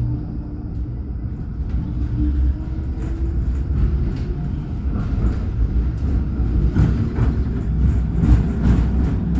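Alstom NGT8D low-floor tram running, with a steady low rumble and a faint motor tone in the first couple of seconds. Clattering grows louder in the second half.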